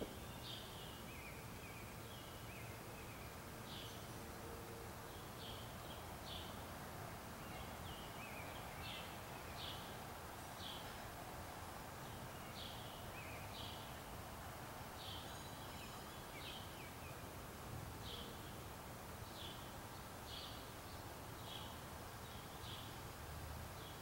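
A bird calling over and over, short high chirps about once a second, over a faint steady background hiss.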